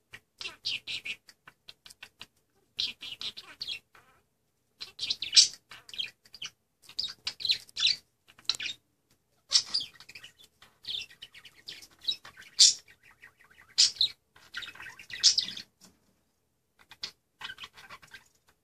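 Budgerigar chattering and warbling in rapid high-pitched runs, broken by short pauses about four seconds in and again near the end.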